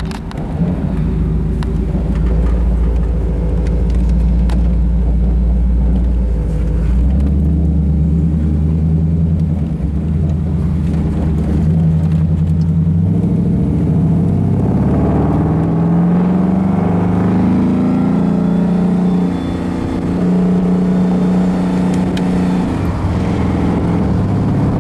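Ford Coyote V8 with dual exhaust running as the car drives off. The engine's pitch jumps up about seven seconds in, then rises and falls in steps through the middle of the drive as the car gathers speed.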